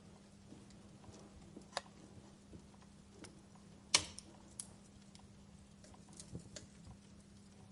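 Wood fire crackling in a fireplace: irregular sharp pops and snaps over a low steady background, with the loudest pop about four seconds in.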